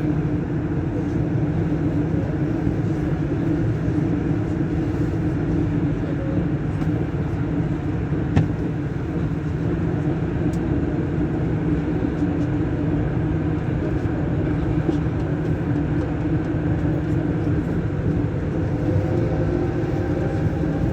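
Rubber-tyred Lyon Metro line B train running steadily between stations, heard from inside the car: an even rumble with a constant drone from the traction motors.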